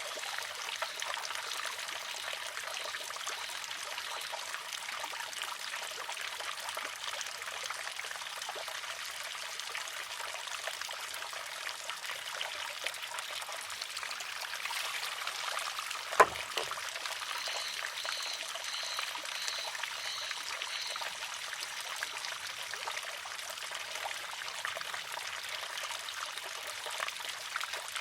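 Water trickling steadily into a wooden shishi-odoshi; about sixteen seconds in, the arm tips over and strikes its rock once with a sharp clack.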